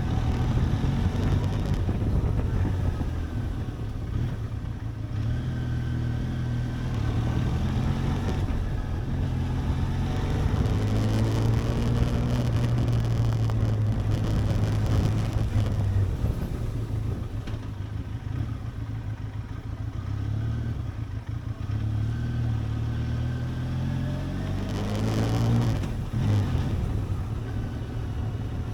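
Benelli TRK 502X's parallel-twin engine running on the move, its revs rising and falling several times.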